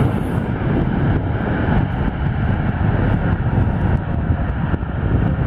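Airliner engines running, a steady loud rumble.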